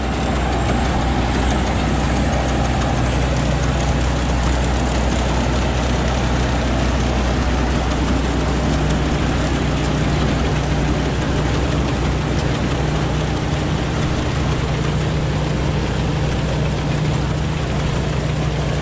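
Rice combine harvester's diesel engine running steadily under load, with the clatter and rush of the harvesting machinery over a constant low hum.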